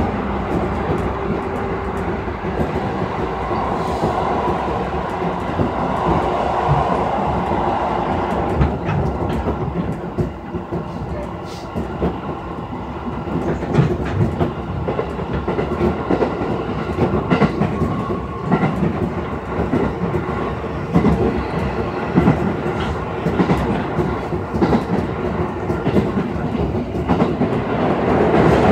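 Interior running sound of a JR East 211-series electric train at speed: a steady rumble of wheels on rail with the clickety-clack of rail joints, getting louder near the end.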